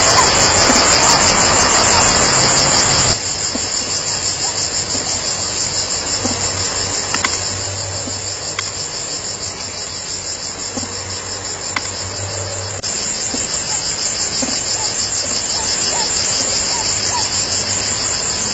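Insect chorus: a steady, rapidly pulsing high-pitched trill. For the first three seconds a loud rushing noise lies over it, then cuts off suddenly.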